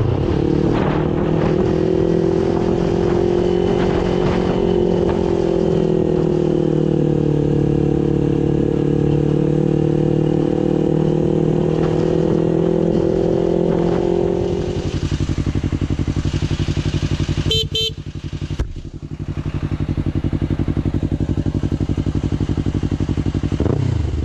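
Motorcycle engine running steadily with a slowly wavering pitch. About two-thirds of the way in it drops to a lower, pulsing, idle-like beat, briefly broken twice soon after.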